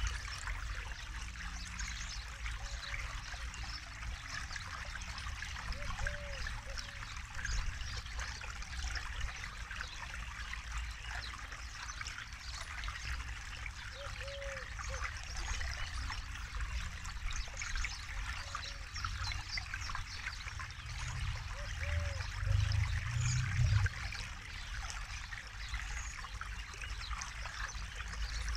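Forest river flowing and trickling steadily, with a low rumble that swells for a couple of seconds near the end. A short low call repeats every few seconds over the water.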